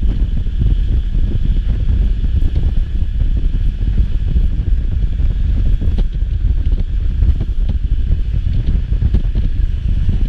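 Heavy wind noise buffeting the microphone: a loud, steady low rumble.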